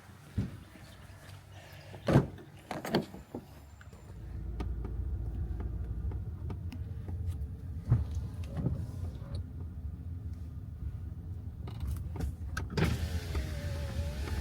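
A car heard from inside the cabin: a few knocks and clunks, then from about four seconds in the engine runs with a steady low rumble.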